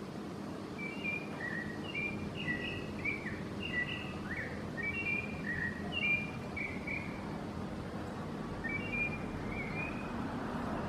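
A chonte singing a quick series of short clear whistled notes that jump up and down in pitch, breaking off about seven seconds in and starting again briefly near the end, over a steady low background rumble.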